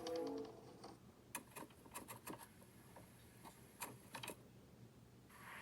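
Quiet, irregular light clicks and taps, a dozen or so scattered across a few seconds, with a brief falling tone at the very start.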